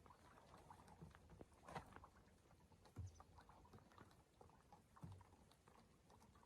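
Near silence with faint scattered clicks and a few soft thumps, roughly a second or two apart.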